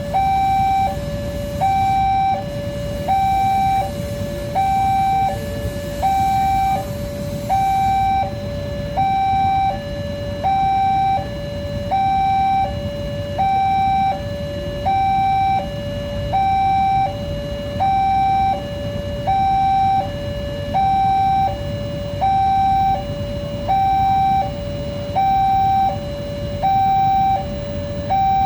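Level crossing's electronic warning alarm sounding a steady two-tone signal. A higher and a lower tone alternate, about one high-low cycle every second and a third, signalling that a train is approaching or passing. Low steady rumbling noise lies underneath.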